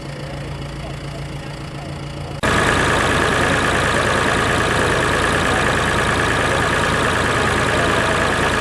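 Tractor engine running steadily at idle. About two and a half seconds in, the sound cuts abruptly to a much louder, steady engine sound with a strong high whine in it.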